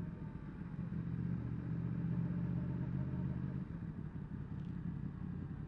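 Yamaha MT-10 SP's crossplane inline-four engine running at low road speed. The note strengthens about a second in, then eases off a little before four seconds in.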